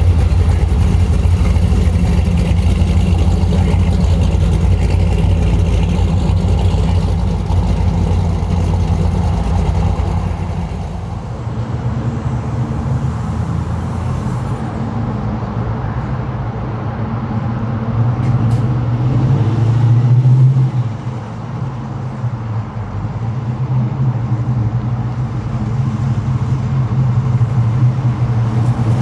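Classic car engines running: a deep, steady engine sound for the first ten seconds or so, then a different engine that swells about twenty seconds in, drops off abruptly and builds again near the end.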